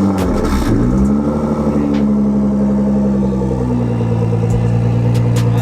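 Car engine revved through its exhaust: a quick blip that rises and falls, then a second rev that climbs and is held steady at high revs before cutting off suddenly.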